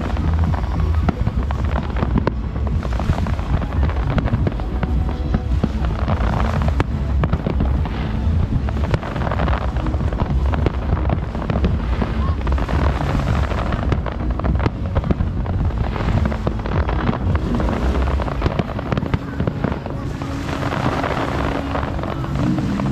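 Fireworks display going off continuously: a rapid, dense run of crackling bursts and bangs over a heavy low rumble.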